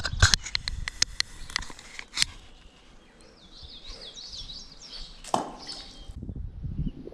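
A small bird chirping in a series of short, quick, falling notes. A run of sharp clicks and knocks comes in the first two seconds, and a single knock about five seconds in. Near the end the sound cuts to a low, gusty rumble.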